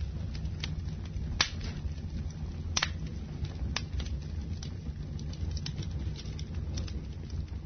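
Wood fire burning in a fireplace: a steady low rumble of flames with irregular crackling and a few sharper, louder pops from the burning logs.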